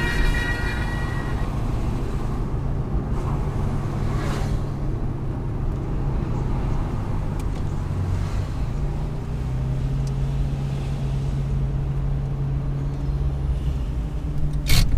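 Chevrolet Corvette C5 Z06's LS6 V8 droning steadily at cruise over tyre and road noise, heard from inside the car; the engine note rises slightly about nine seconds in. A brief loud noise comes just before the end.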